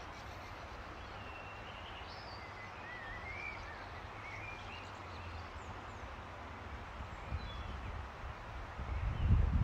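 Songbirds chirping and warbling with short rising and falling notes over a steady low outdoor rumble. Near the end, wind starts gusting across the microphone.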